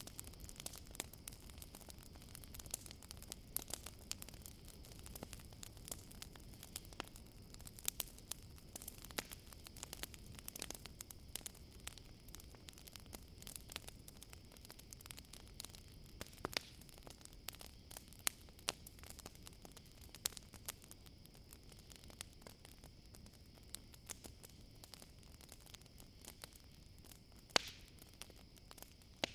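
Campfire crackling, with frequent sharp pops, the loudest about two seconds before the end, over a steady high drone of crickets.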